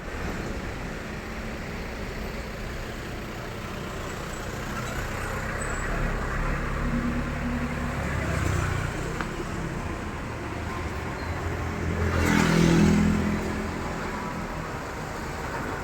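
An engine running steadily, with a louder swell about twelve seconds in that rises and fades again.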